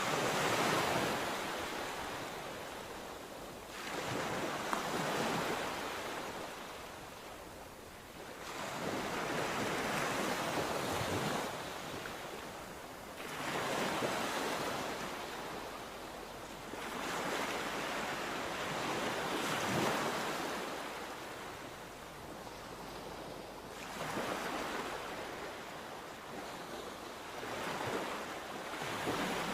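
Sea waves breaking on the shore, one surge of surf every three to five seconds, each swelling and then washing back, with a little wind.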